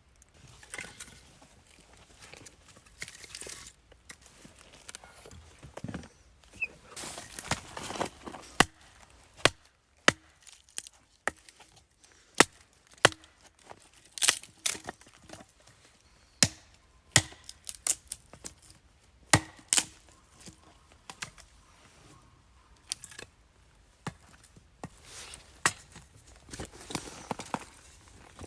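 Firewood being chopped or split by hand: irregular sharp wooden knocks and cracks, roughly one a second, some much louder than others, with rustling between them.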